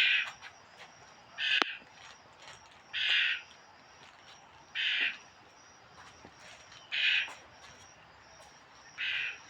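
A bird giving short, harsh calls, repeated about every two seconds, six in all. There is a sharp click about one and a half seconds in.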